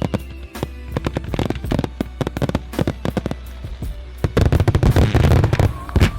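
Fireworks going off: irregular sharp bangs, a dense crackling volley about four seconds in, and a single loud bang near the end. Music plays underneath.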